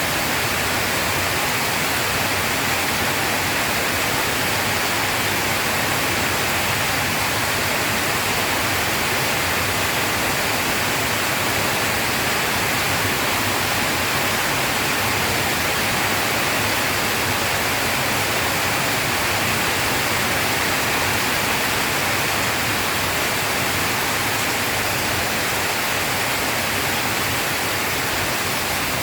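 Rain falling in a steady, even hiss, with no thunder.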